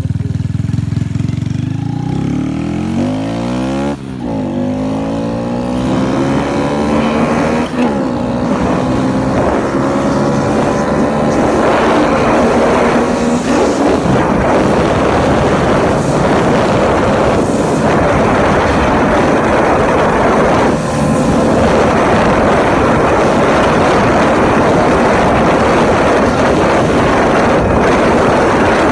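Motorcycle engine accelerating, its pitch climbing with short dips at the gear changes. It then runs at speed, with heavy wind noise on the microphone covering most of the engine.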